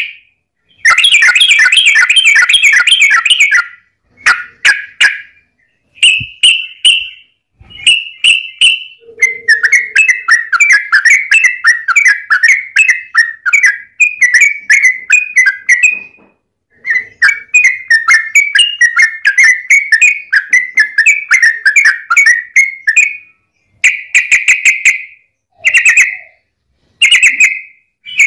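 Yellow-vented bulbul (trucukan) singing loud, rapid, bubbly chattering phrases in repeated bursts with short pauses between them, including two long unbroken runs through the middle.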